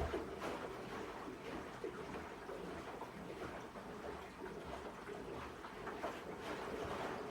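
Water sloshing and splashing inside the tub of a Sharp ES-S7B fully automatic washing machine as it runs a cycle. The sound starts abruptly at the outset and then goes on as an uneven churning.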